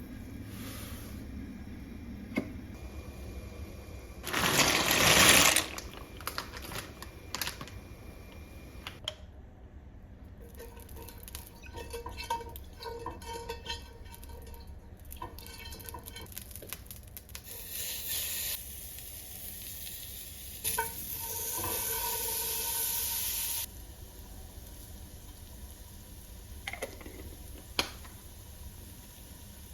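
Kitchen tap running in short spurts, about a second early on and a few seconds again in the second half, with clinks and light clatter of dishes and utensils in between.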